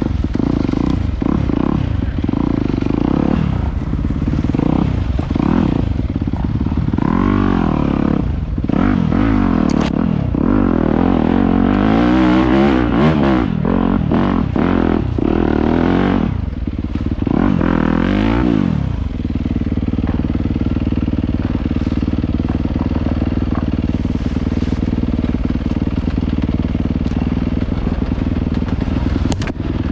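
Dirt bike engine revving up and down again and again, then settling about two-thirds of the way in to a steady idle.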